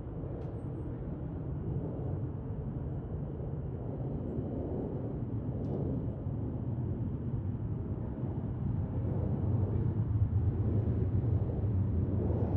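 Low, steady rumble of jet aircraft engines, growing louder over the last few seconds.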